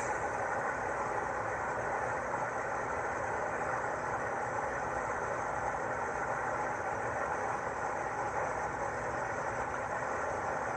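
Angle grinder running continuously as it cuts through a steel wheel boot clamped to a car wheel, a steady grinding of disc on metal.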